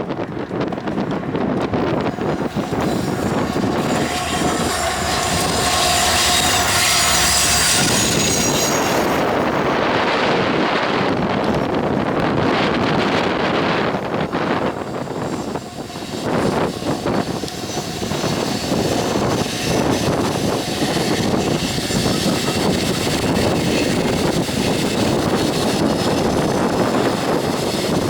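Union Pacific coal train passing close by: a steady loud rumble of locomotives and cars rolling on the rails, heaviest a few seconds in. A thin, high steady tone rides over it in the second half.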